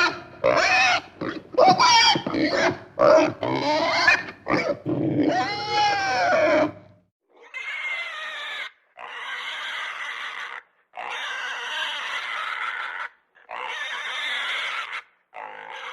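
Pigs calling. For about seven seconds there is a fast, crowded run of squealing and grunting calls whose pitch slides up and down. After that come separate harsh calls, each a second or two long, with short gaps between them.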